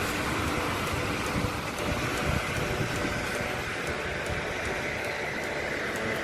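Steady rain falling: an even hiss with the faint ticking of drops.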